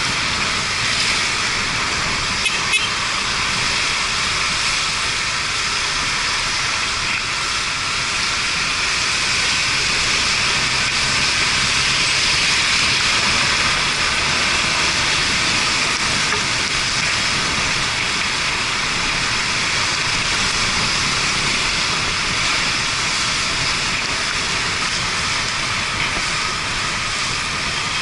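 Steady rushing hiss of wind and tyre spray from a Yamaha Fazer 250 motorcycle riding on a rain-soaked road, with two faint clicks about two and a half seconds in.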